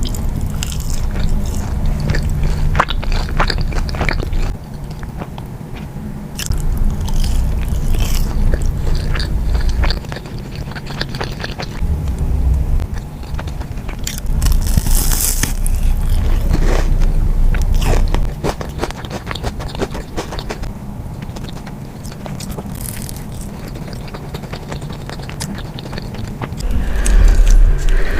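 Close-miked eating sounds: bites and chewing of crunchy food, with many crisp crackles, coming in bouts of a few seconds.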